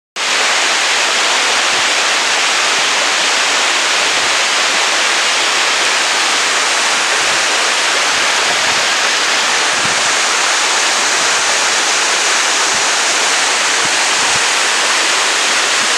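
Waterfall: a steady loud rush of falling water.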